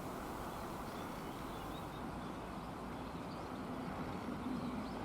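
Steady outdoor background noise, a low rumbling hum, with a few faint high chirps of small birds.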